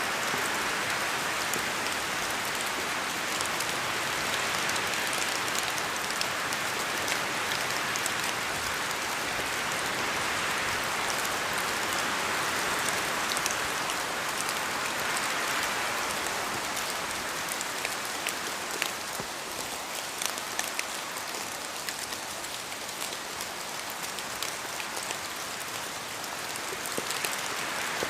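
Steady rain falling, with the patter of individual drops striking a surface, easing a little past the middle and picking up again near the end.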